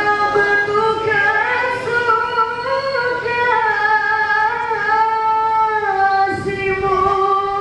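A group of voices singing long held notes that move together in steps, in harmony, with no beat or percussion.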